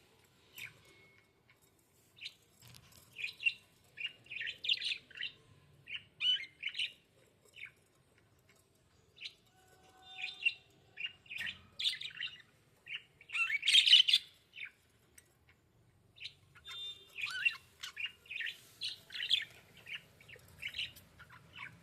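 Budgies chirping in short clusters of quick, high chirps separated by brief pauses, loudest about two-thirds of the way through.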